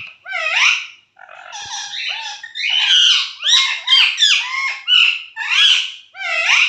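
Pet parrot squawking: a rapid series of about nine loud, harsh calls, many with a rising sweep, after a short pause about a second in.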